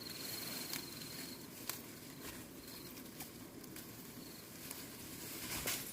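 An insect's high, pulsing trill lasting about a second and a half, with two short repeats later, over scattered light clicks and rustling.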